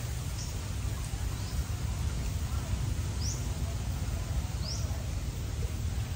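Outdoor ambience: a steady low rumble under a small bird giving short, high chirps about four times, one to two seconds apart.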